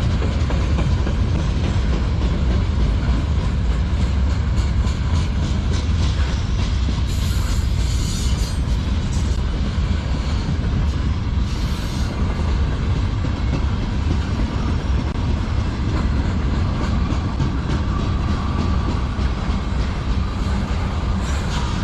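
Freight train cars rolling past close by: a steady heavy rumble with the rhythmic clickety-clack of wheels over the rail joints. Twice there is a brief higher hiss.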